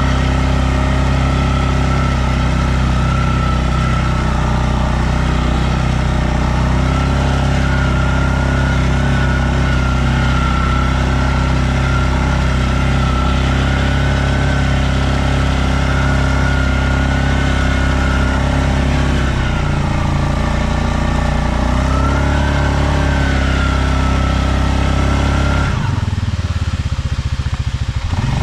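Stels Leopard 650 ATV engine running steadily under throttle as the quad drives. The engine note dips and climbs back about two-thirds of the way through, then drops away sharply near the end as the throttle is let off.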